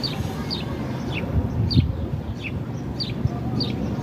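A bird calling in a steady series of short chirps, each falling in pitch, about two a second, over a steady low rumble.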